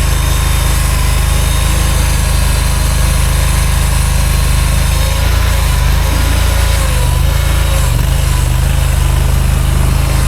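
Mini skid steer's engine running steadily under way, its pitch shifting up and down in the second half as the load or throttle changes.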